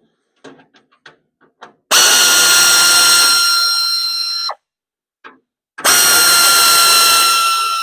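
Power drill-driver running in two bursts of about two and a half to three seconds each, a steady whine, backing out fasteners, with a few light clicks before the first burst as the bit or socket is set on.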